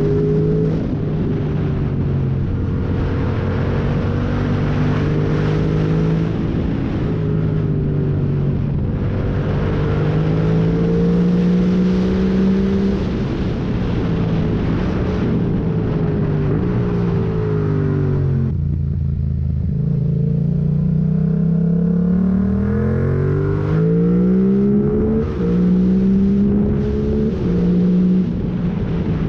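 Yamaha MT-07's parallel-twin engine through a full MIVV exhaust with the catalyst removed and no dB killer, revved hard through bends. The revs climb and fall again and again with gear changes, and ease off briefly about two-thirds through before pulling up again.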